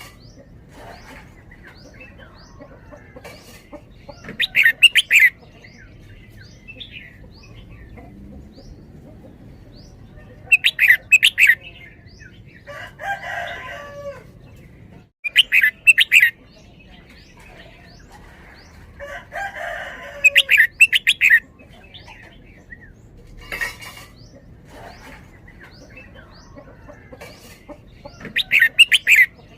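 Red-whiskered bulbul singing five short, loud phrases of quickly repeated notes, a few seconds apart. Twice between phrases a lower, drawn-out call with a falling end is heard.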